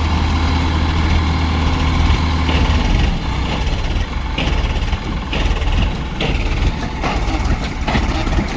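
Tractor diesel engine idling with a steady low hum; about three seconds in the hum turns rougher and less even, with a few short knocks or clanks after.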